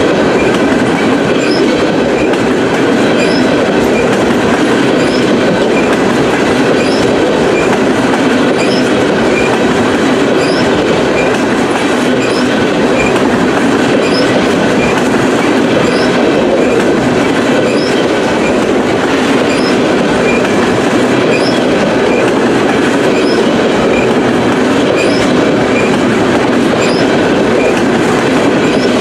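Freight train of tank cars rolling past close by: a steady rumble of steel wheels on rail with a clickety-clack over the rail joints, and short faint high squeaks about once a second.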